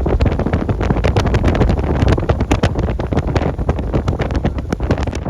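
Strong wind buffeting the microphone in a heavy, continuous low rumble, with many sharp ticks and taps scattered through it.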